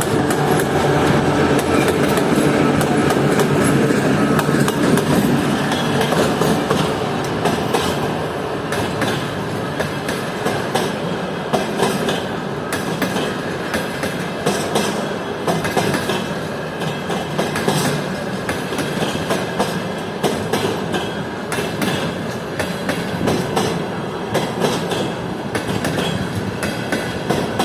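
2TE116 twin-section freight diesel locomotive running past, its diesel engine loudest for the first several seconds. The train's wheels then clatter steadily over the rail joints, with brief wheel squeal.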